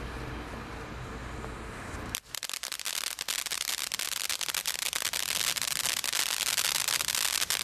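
A steady low background rumble, then about two seconds in a sharp click and a garden firework sets off a dense hissing spray of sparks with rapid crackles, growing slightly louder.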